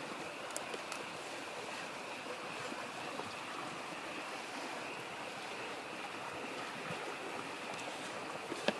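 Wood campfire crackling with a few sharp pops, the loudest near the end, over the steady babble of a mountain stream and a faint steady chorus of frogs.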